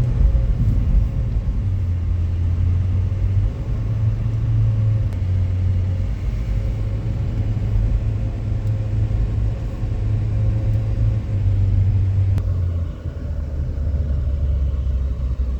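A moving car heard from inside the cabin: a steady low rumble of engine and road noise. About twelve seconds in there is a click, and after it the higher part of the noise falls away.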